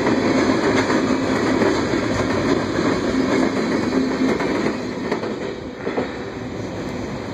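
Freight train's tank cars rolling through a grade crossing, wheels clattering over the rail joints. The last car clears about five seconds in, and the noise drops to a quieter steady rush.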